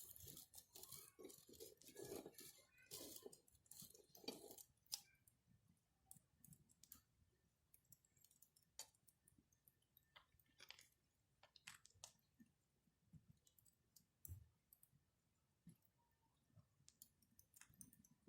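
Wood campfire crackling and popping faintly, with a busy run of crackles in the first few seconds, then sparse single pops.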